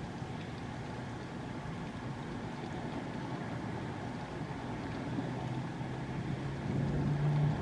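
Steady rain falling, with a vehicle's engine hum rising in the last couple of seconds and growing louder as it passes close.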